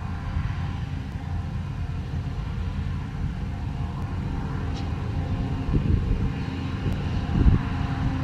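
Heavy diesel farm machinery running steadily with a low rumble, with a few low thumps near the end.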